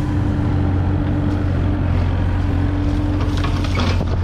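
A vehicle engine running steadily at constant speed, a deep hum with a steady whine above it. Near the end comes a brief clattering rattle.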